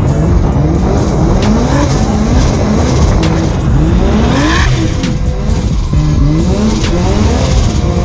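Drift car engine revving hard, its pitch climbing over and over as the driver works the throttle, with tyres squealing and skidding.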